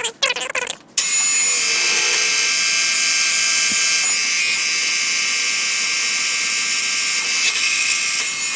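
Milling machine drilling a hole through a hot-rolled steel block: a steady mechanical whir with a dense whine of gear tones. It starts about a second in and stops abruptly at the end, after a second of short squeaky chirps.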